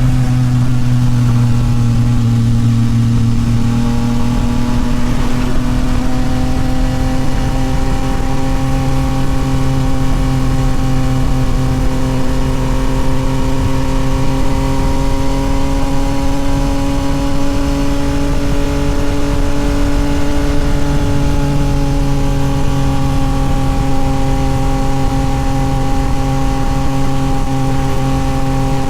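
Yamaha MT-09 SP's inline three-cylinder engine through a Toce full exhaust, running at a steady cruising speed. Its pitch dips slightly early on, climbs slowly through the middle, then eases back a little near the end.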